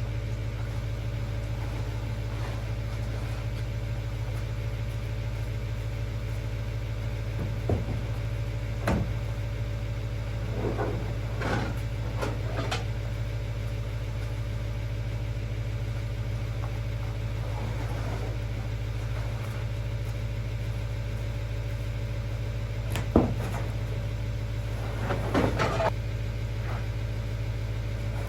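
An engine idling steadily, with a few short knocks and clatters over it.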